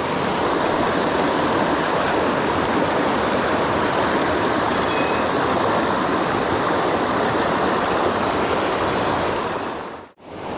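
Mountain stream water rushing, a steady, even roar that fades out sharply about ten seconds in.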